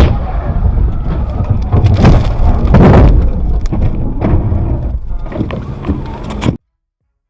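Loud car rumble with several sharp knocks, the loudest at the start and around two and three seconds in; it cuts off abruptly about six and a half seconds in.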